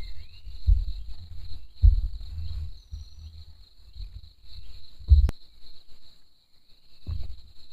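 Steady high-pitched chirring of an insect chorus, over irregular low rumbling thuds that are the loudest sound. A sharp click comes about five seconds in, and a short rising chirp at the start.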